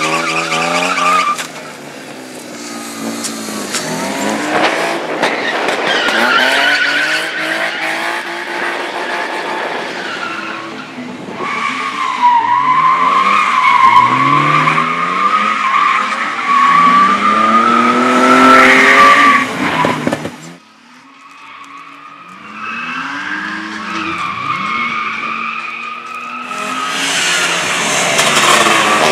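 Cars being driven hard through a slalom course, engines revving up and dropping back again and again, with tyres squealing. A long squeal runs from about twelve seconds in, and the sound falls off suddenly near twenty seconds before another engine picks up.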